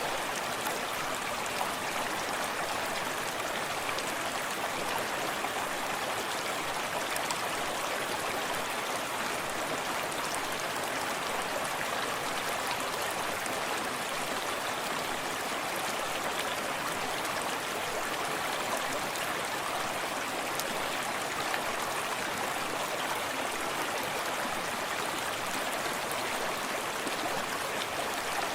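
Small forest stream running steadily over stones, a continuous even rush of flowing water with soft splashing close by.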